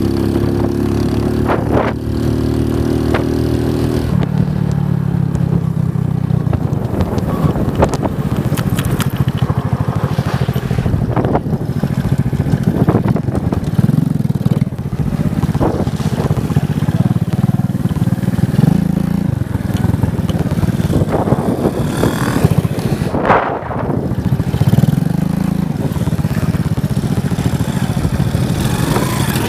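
Motorcycle engine running while it is ridden. The pitch holds steady for the first few seconds, then rises and falls again and again as the throttle is opened and closed.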